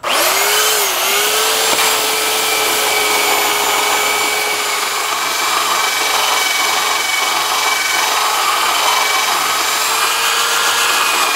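Black & Decker electric sander switched on and running steadily against wooden fence boards, a constant motor whine over the rasp of the paper on the wood. It is sanding down wood that has swollen from getting wet and drying out.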